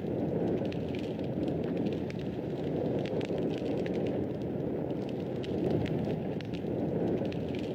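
Wood fire burning in a fireplace: a steady low rumble of flame with frequent small, sharp crackles and pops scattered irregularly throughout.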